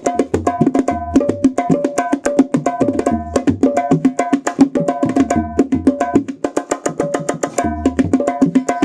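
Terbangan frame drums playing a fast, dense interlocking rhythm: the new tirintit's high, ringing strokes over low bass strokes that come round about every second and a half.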